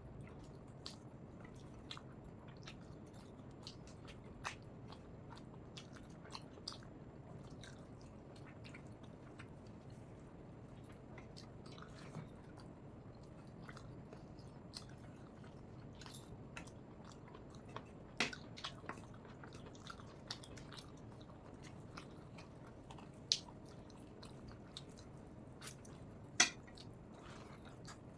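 Close-miked eating of rice and chicken curry: steady chewing with many small wet mouth clicks and lip smacks, and a few sharper clicks in the second half.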